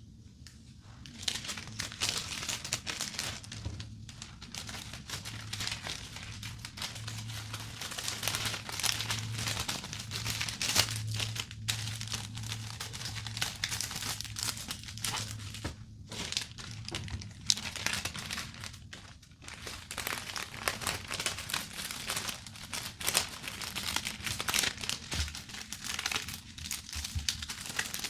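Cellophane sheet crinkling and crackling continuously as it is handled and folded around handkerchiefs, with many small sharp crackles.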